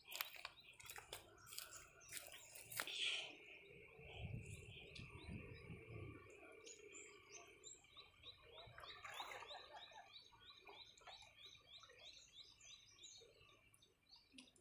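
Faint riverside ambience: a bird chirping repeatedly, about two or three short high chirps a second, over a faint steady high tone. A few sharp knocks and scuffs in the first three seconds.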